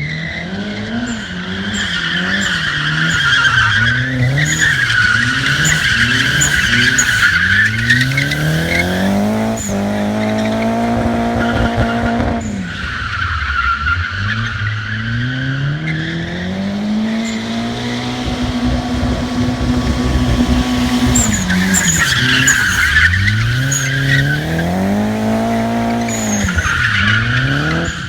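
Nissan 240SX drifting: the engine revs up and down hard with quick throttle blips and long held high revs, while the rear tyres squeal in long stretches through the slides. The tyres are nearly worn out.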